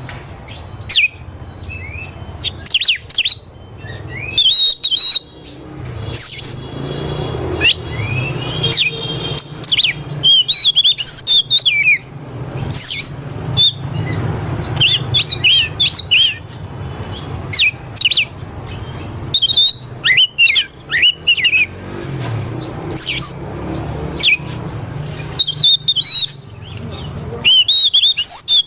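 Oriental magpie-robin (kacer) singing: a continuous run of varied, quick whistles and chirps, with a steady low hum underneath.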